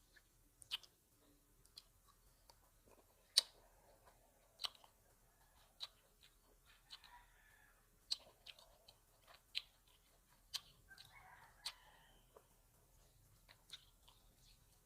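A person chewing grapes close to the microphone, with sharp, wet mouth clicks and crunches about once a second.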